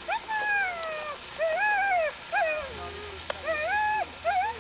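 Sled dogs howling and whining in pitched calls that rise and fall: one long falling howl at the start, then a string of shorter arching calls.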